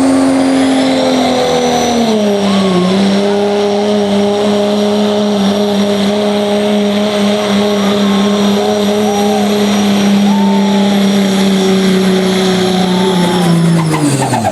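Turbocharged diesel pickup engine at full throttle pulling a sled, with a high turbo whistle over the engine note. The pitch steps down about two seconds in as the load builds, holds steady, then falls away sharply near the end as the throttle comes off.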